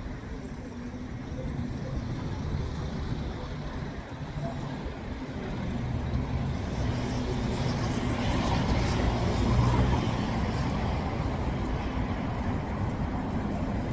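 A vehicle running, a steady low hum under road noise that builds from about six seconds in and is loudest near ten seconds.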